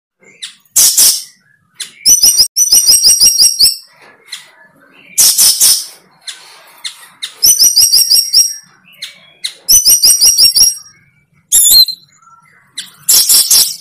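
A bird calling close to the microphone: several phrases of rapid, high, repeated chirps, a second or so each, alternating with short harsh rasping notes.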